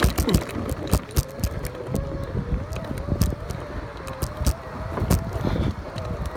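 Segway's electric drive motors whining, the pitch wavering up and down with speed as it rolls over rough, muddy ground, with frequent sharp knocks and clunks from the machine jolting over bumps.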